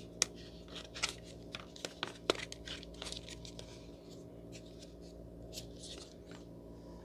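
Plastic clicks and short rustles as a smartphone gimbal and its mini tripod are handled and fitted together, over a steady low hum. The sharpest click comes about a quarter second in, and the handling thins out after about four seconds.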